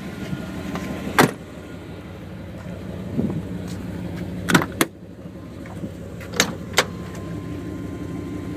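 SUV door latches and handles clicking as the doors are opened: five sharp clicks, the last four in two quick pairs, over a steady low hum.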